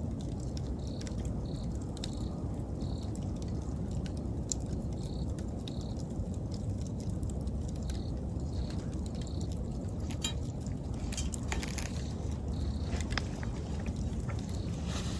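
Wood fire crackling with sharp pops, most of them a little past halfway, over a steady low rumble. An insect chirps throughout in short, evenly spaced chirps, in runs of a few at a time.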